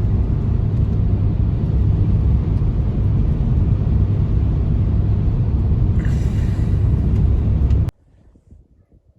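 Blizzard wind blowing steadily as a heavy low rumble, cutting off suddenly about eight seconds in.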